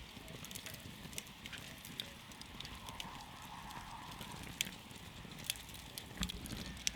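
Wood campfire burning, with irregular sharp crackles and pops over a steady low rumble of the flames. A soft hiss rises briefly about midway, and the loudest pops come in the last few seconds.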